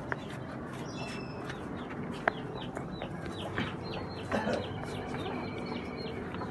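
Birds calling around the loft: many short, high, falling chirps throughout, with a few lower calls about two and four seconds in, over steady background noise.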